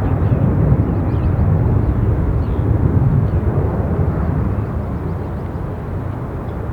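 Jet airliner engine noise mixed with wind rumbling on the microphone, a steady, dense roar that eases slightly near the end.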